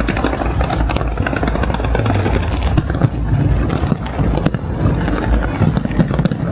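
Large fireworks display: dense crackling and popping over a steady low rumble, with music playing through loudspeakers.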